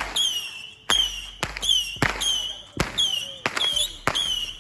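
Fireworks going off in quick succession: a sharp bang about every two-thirds of a second, each trailed by a short high-pitched ringing tone.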